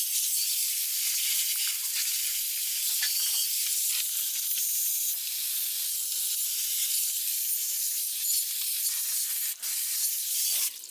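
A steady hiss, like air or liquid spraying, that breaks off briefly near the end and then stops abruptly.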